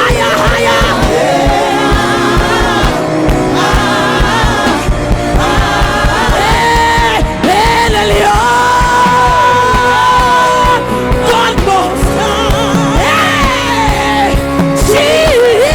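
Live gospel worship music: a lead singer holding long notes and runs over a band, with voices calling out.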